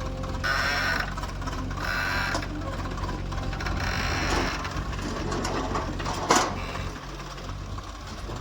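Heavy earth-moving machinery at work: a diesel engine running steadily under several short bursts of clattering, with one sharp loud clank about six seconds in.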